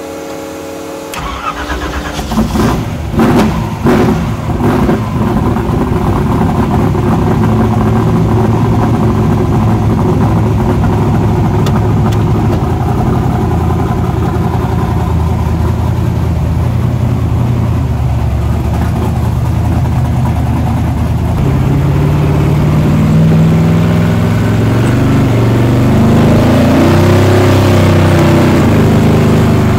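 Twin-turbo 515 cubic-inch big-block Chevrolet V8, heard from inside the car as it is driven. A few sharp throttle blips come first, then a steady drone. Near the end the engine's pitch climbs and drops several times as it accelerates.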